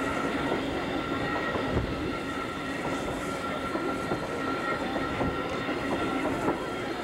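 Steam-hauled passenger train running along the track, heard through an open coach window: a steady rumble of wheels on rails with a few scattered clicks and a steady high tone over it.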